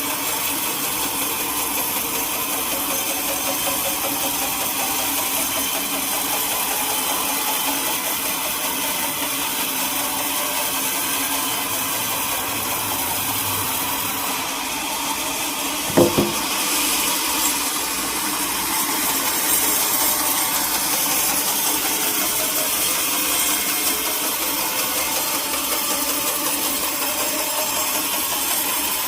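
Sawmill machinery running steadily, a continuous mechanical drone with one sharp knock about halfway through.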